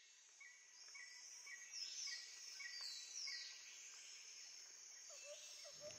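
Faint nature ambience of insects and birds: a steady high insect hiss with a bird repeating a short chirp about twice a second, gliding high calls, and a lower repeated call near the end.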